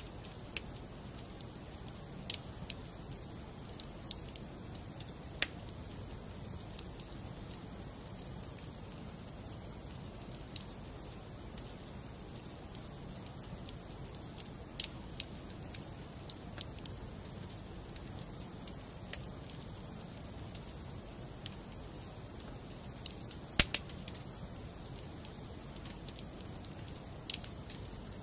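Wood fire burning in a fireplace, crackling with irregular sharp pops over a steady low rush, with one louder pop late on.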